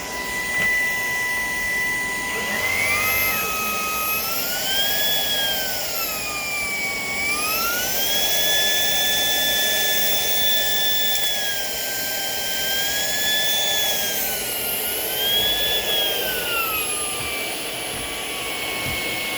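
Shark PowerDetect cordless vacuum running. Its motor whine steps up in pitch a few seconds in, then rises and falls several times as the suction power changes, and settles back to a lower steady whine near the end.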